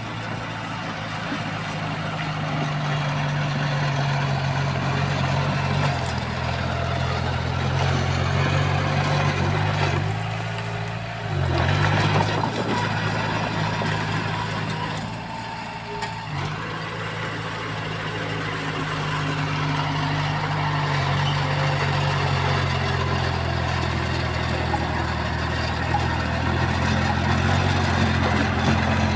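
Diesel engine of heavy earthmoving machinery running steadily, its note shifting briefly about a third of the way in and again around halfway.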